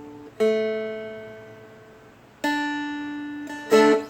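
Four-string Seagull Merlin M4 strummed open to check its tuning. One strum comes about half a second in and rings out, fading. A second comes about two seconds later and sustains, then a quick strum comes near the end.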